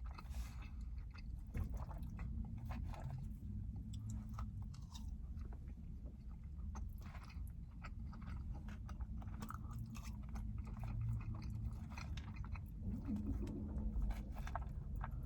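Close-miked chewing of soft, soggy loaded fries topped with cheese sauce and chicken: many wet mouth clicks and smacks with little crunch.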